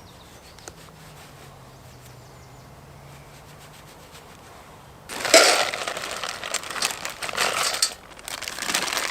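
Close rustling and crinkling of something being handled, starting about five seconds in after a quiet stretch with a faint low hum, then a second bout near the end.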